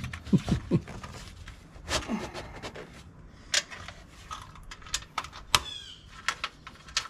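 Scattered clicks, taps and light knocks from parts and tools being handled during excavator air-filter service, with a brief high squeak about six seconds in.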